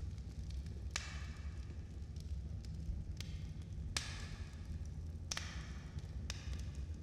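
Wood fire burning in a fireplace: a steady low rumble of the flames with sharp crackles and five louder pops from the burning logs.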